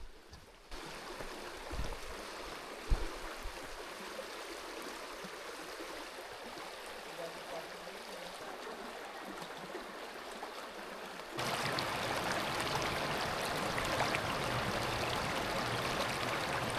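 Running water of a creek, a steady rushing that jumps abruptly louder about eleven seconds in, with two low thumps in the first few seconds.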